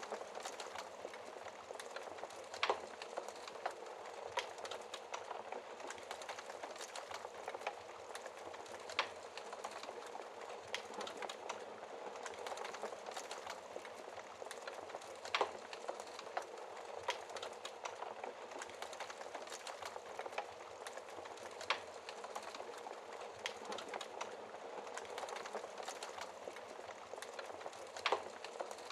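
Wood fire crackling, with frequent small clicks and a sharp louder pop every few seconds, over a steady hiss of rain.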